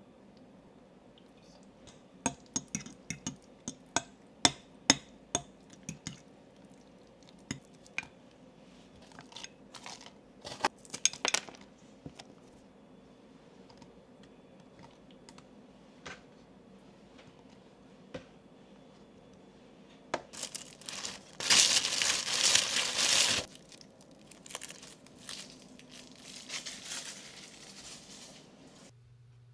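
Kitchen handling sounds: a quick run of sharp taps and clinks, scattered clicks and rustles, then a loud crinkling of packaging for about two seconds, followed by softer rustling.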